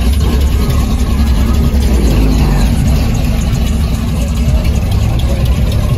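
Engine of a customized Chevrolet Monte Carlo SS running with a loud, steady low rumble as the car rolls slowly past.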